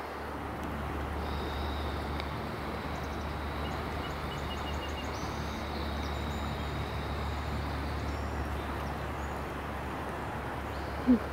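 Outdoor nature ambience: a steady low rumble and hiss with faint, high bird calls, including a quick run of short notes a few seconds in. A brief loud call cuts in just before the end.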